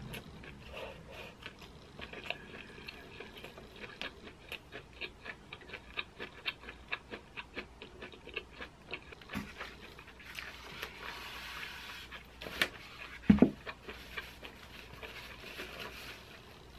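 Close-up chewing of a mouthful of sweet corn and melted mozzarella: soft wet mouth clicks at about two a second, with a brief rustle and a couple of louder short sounds about two-thirds in.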